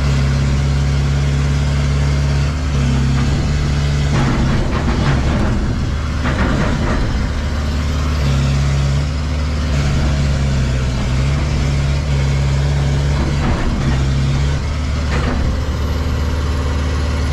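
A machine's engine running steadily close by, its note dipping and recovering several times as if under changing load, with some mechanical clatter a few seconds in.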